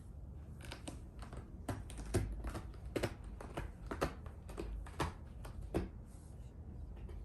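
An irregular run of light clicks and taps, about two to three a second, over a low steady hum.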